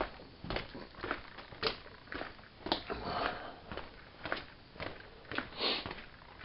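Footsteps walking, about two steps a second, with a few softer rustles between them.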